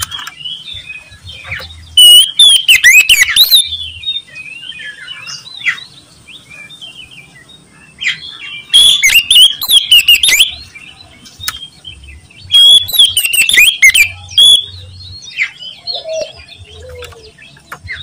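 Oriental magpie-robin singing loudly in quick, varied phrases, in three loud bursts with softer chirps between them.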